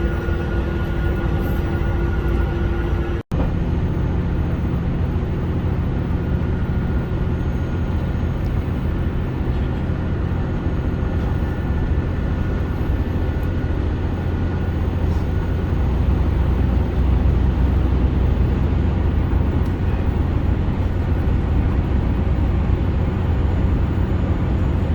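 Chizu Express HOT7000 series diesel railcar running at speed: a steady low engine drone with rail and running noise, which grows a little louder about two-thirds of the way through. There is a momentary dropout about three seconds in.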